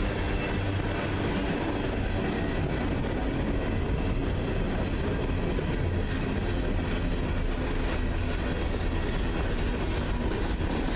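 Freight train rolling past: a steady rumble of railcars on the rails, with some clicking of wheels over the track.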